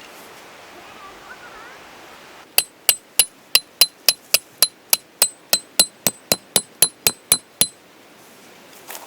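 A hammer striking metal: about eighteen quick, evenly spaced blows, each with a bright ring, at roughly three and a half a second. They start a couple of seconds in and stop shortly before the end.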